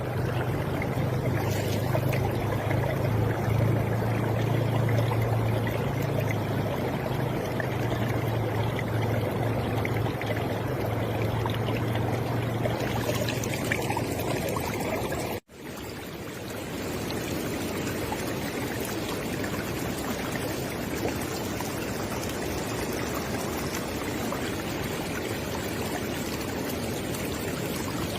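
River water flowing steadily, with a low rumble under it in the first half. A momentary dropout about halfway through, after which the flow carries on without the rumble.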